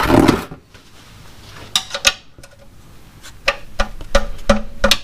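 Metal hand tools clinking and knocking: a brief scrape at the start, then a string of sharp metallic clinks, several ringing briefly.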